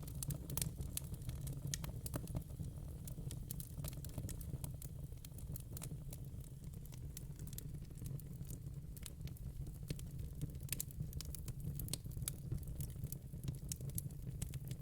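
Burning logs in a fire pit crackling, with frequent irregular sharp pops over a steady low rumble.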